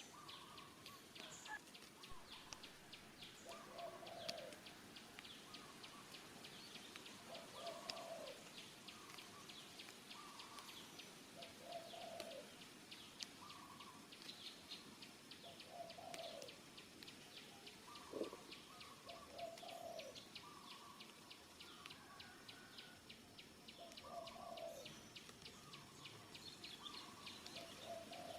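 Faint birds calling: a short low call repeating about every four seconds, over a fast, steady high ticking.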